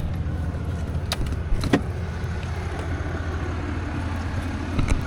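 Car running with a steady low hum, with a few light clicks between one and two seconds in.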